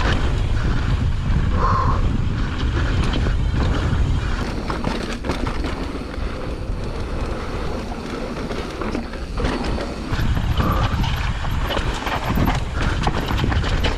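Mountain bike descending a dry, loose dirt trail at speed: wind buffeting the microphone over the tyres crunching on dirt, with a steady run of clicks and rattles as the bike jolts over bumps.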